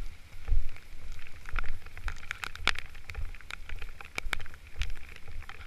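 Raindrops ticking irregularly on gear close to the microphone, with low thumps of movement and wind against it.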